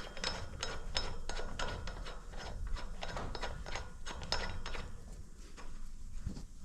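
Hand ratchet wrench clicking in quick repeated strokes as the front axle nut is tightened. The clicking eases off after about five seconds.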